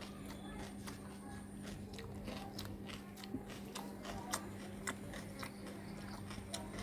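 Close-up eating sounds of pork curry and rice: chewing and biting with scattered small wet clicks, over a steady low hum.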